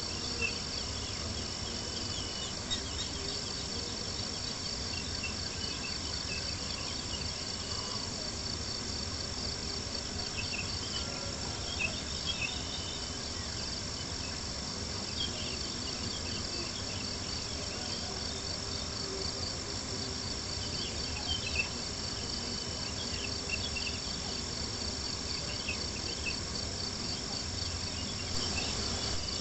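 Crickets chirping in a steady, fast pulsing trill, with occasional sharp crackles from a campfire over a low steady rumble.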